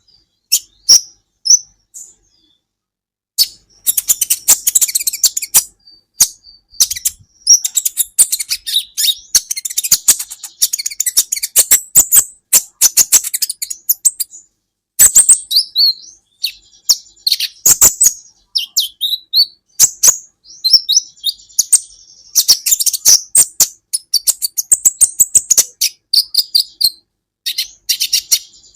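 Kolibri ninja (konin) sunbird singing: a fast, high twittering of sharp clicks and chirps, broken by a short pause about two seconds in.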